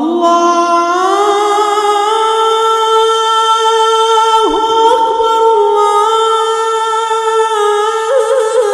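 A man's solo voice chanting the adhan (Islamic call to prayer), drawing out one long melismatic phrase. The held note rises slightly about a second in, and quick ornamental turns come near the end.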